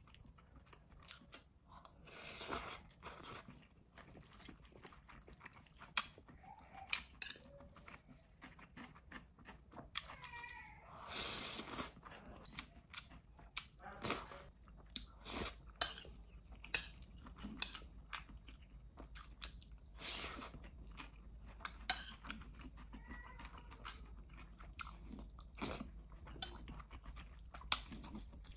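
A person chewing mouthfuls of stir-fried short noodles up close, with wet mouth sounds, and with a fork and spoon clicking sharply against a plate again and again.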